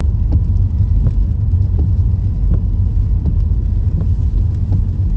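Loud, steady low rumble of a motor vehicle running or being driven, with faint light ticks and rattles over it.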